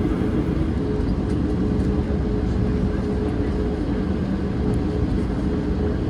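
Steady low rumble of a vehicle under way, with an even droning tone above it.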